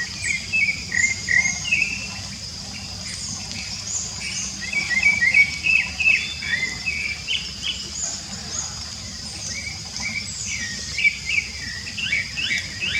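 Rufous-bellied thrush singing: quick runs of short whistled and chirped notes, over a steady high-pitched insect drone.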